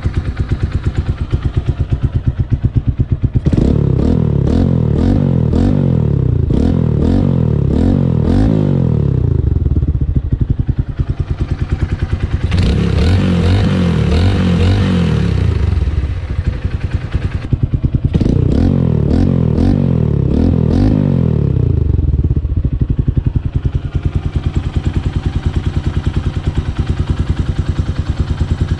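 Motorcycle engine, its oil freshly dosed with EGB Safety Engine Lube additive, idling and then blipped through three bouts of quick repeated throttle revs, each rev rising and falling in pitch, before settling back to idle.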